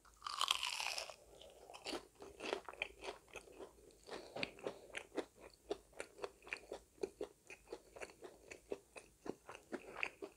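A person bites into a battered, deep-fried squid ring with one loud crunch, then chews it: a steady run of crunchy chews, about three a second.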